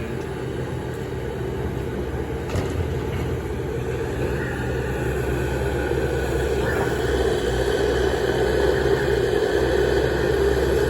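Heavy diesel machinery running steadily at a dirt-loading site, most likely the Kobelco SK280SR excavator's engine working, with a low rumble that grows louder in the second half.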